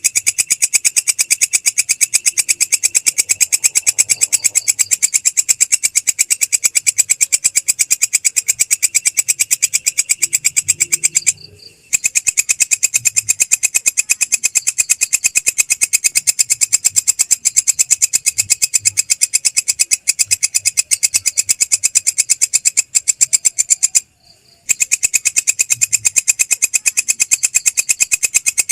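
Belalang krek, a stridulating Indonesian grasshopper, calling in a high-pitched, fast, even train of pulses that stops briefly twice.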